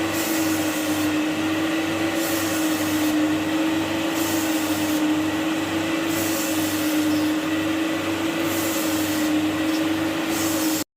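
Carpet-cleaning extraction machine running with a steady motor whine, its high hiss swelling and fading about once a second. It stops abruptly near the end.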